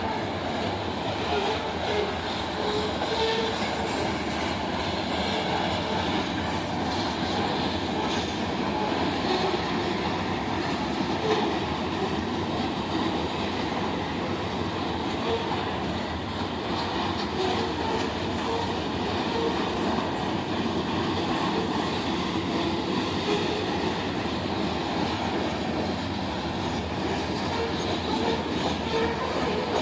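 A train passing, its cars rolling along the rails in a steady, unbroken run of noise.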